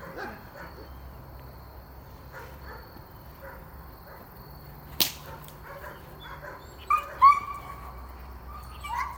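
A single sharp crack about halfway through, then a young dog barking a few times near the end.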